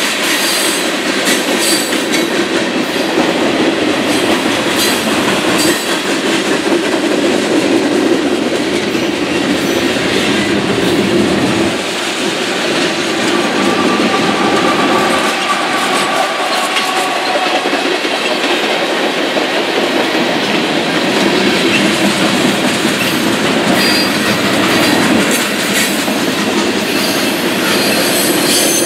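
Freight train rolling past at close range: a steady rumble and clatter of freight car wheels over the rails. About halfway through, a Union Pacific diesel locomotive running as mid-train distributed power passes among the hopper and tank cars.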